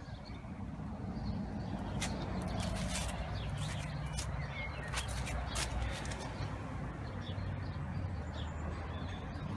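BMW K1200R inline-four engine idling steadily through a Staintune stainless-steel slip-on exhaust with its baffle removed, a low, even burble.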